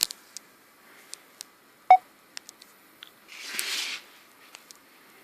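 Scattered sharp clicks and handling noises, with one short electronic beep about two seconds in and a brief rustle past the middle.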